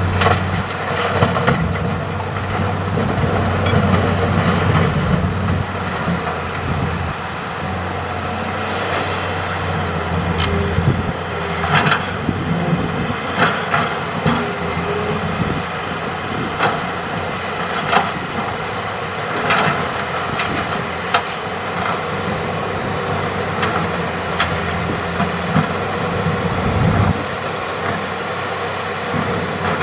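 Hitachi excavator's diesel engine running steadily, with sharp knocks and clatter of rock struck and dropped several times in the middle of the stretch.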